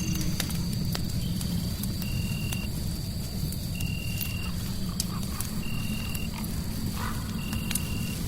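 Crackling fire in a fireplace: scattered sharp pops over a steady low rumble, blended with a constant hiss. A short, flat, high-pitched tone recurs about every 1.7 seconds, four times, and a faint high steady tone runs underneath.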